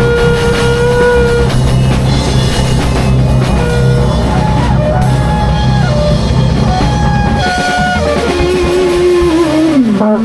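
Live rock-style band improvising: guitar holding long sustained notes over drum kit and bass. About three-quarters of the way through the drums and bass drop away, leaving held notes that slide down in pitch near the end.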